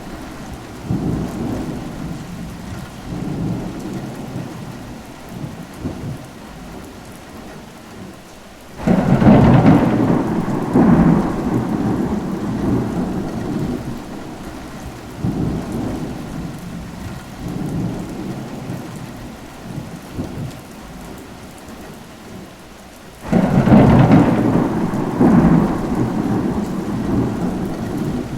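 Steady rain with low rolling thunder. Two loud thunderclaps break in, about nine seconds in and again late on, each rumbling away over several seconds.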